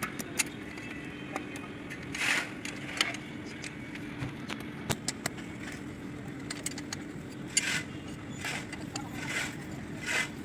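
Small metal engine parts and hand tools clinking and scraping in irregular light clicks, over a steady low hum. Short hissy bursts come several times, about two seconds in and again near the end.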